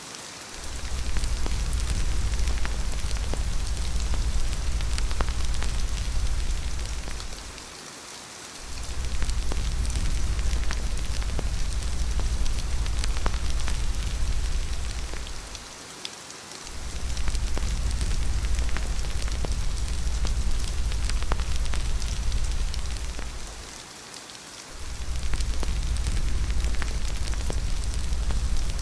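Steady rain with fine ticks of drops throughout, over a deep low rumble that fades out briefly and returns about every eight seconds.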